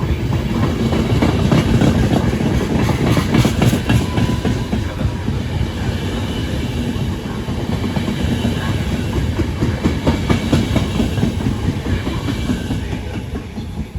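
A train passing through a station, its wheels clattering quickly over rail joints with a continuous rumble, easing off near the end.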